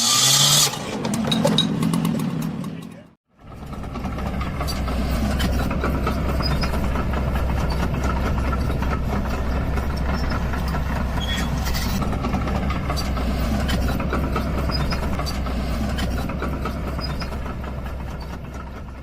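A heavy engine running steadily with a low rumble and some rattling, starting after a brief break about three seconds in and fading near the end.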